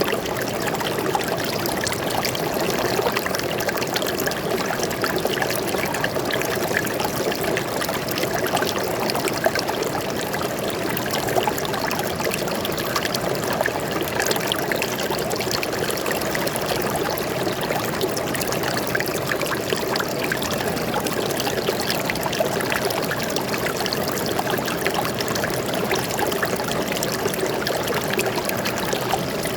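A small stream flowing and trickling steadily, a continuous splashing babble of water.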